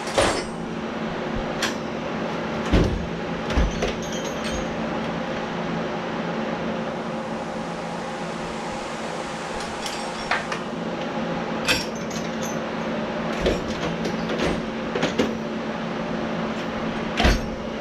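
Scattered clicks and knocks of a wrench, socket and metal fuel-fitting plugs being handled and worked, over a steady background hum.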